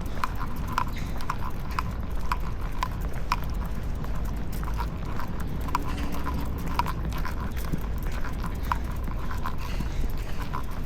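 Dogs' claws clicking on pavement as they walk, a quick irregular patter of several ticks a second, over a steady low rumble.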